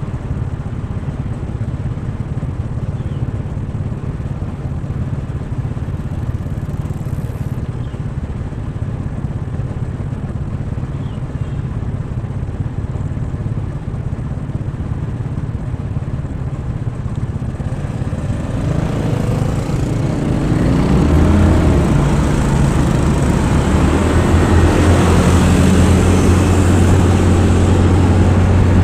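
Motorcycle engine running while riding on the road. The engine gets louder and rises in pitch about two-thirds of the way through as it speeds up, then holds steady.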